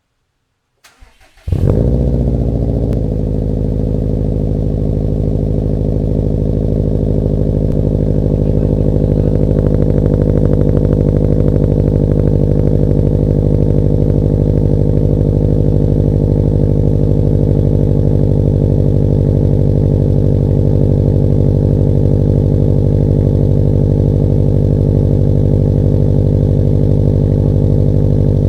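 Cold start of a 2011 Subaru STI's turbocharged 2.5-litre flat-four, breathing through a COBB catted downpipe and Invidia Q300 exhaust: a brief crank about a second in, the engine catches and flares, then settles into a steady idle.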